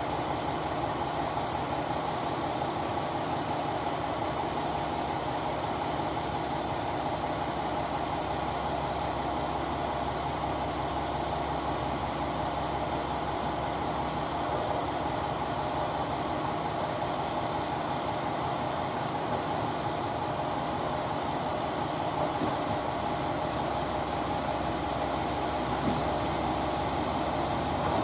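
A train idling at the station: a steady mechanical hum that does not change, growing a little louder near the end.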